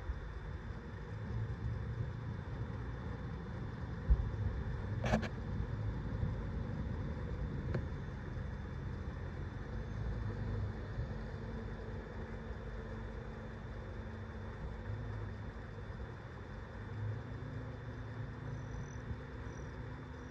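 Mountain stream flowing, a steady rushing of water with an uneven low rumble, broken by one sharp click about five seconds in.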